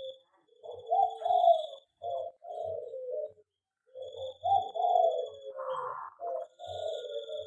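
Zebra doves (perkutut) cooing, their rolling song phrases repeating in two runs with a short pause about halfway, over a thin high steady tone in the background.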